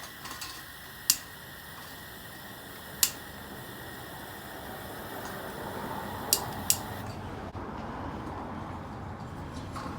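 Steady hiss of propane flowing through a tank-top propane heater's half-open valve and burner during lighting, growing slightly louder partway through, with four sharp clicks from a lighter being sparked.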